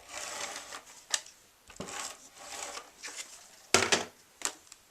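ATG tape gun rasping in strokes of about a second as it lays adhesive tape along a paper panel, with a few sharp clicks and one loud knock about three-quarters of the way in.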